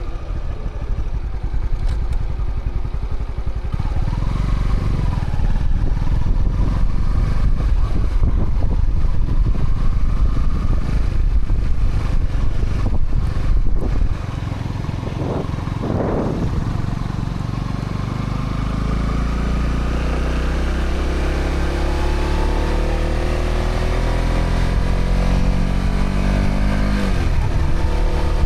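Honda CB125R's single-cylinder 125cc four-stroke engine through its stock exhaust, under way. The throttle eases off about halfway, then the engine pulls with a steadily rising pitch, and a gear change near the end drops the revs before it climbs again. Wind rushes on the microphone throughout.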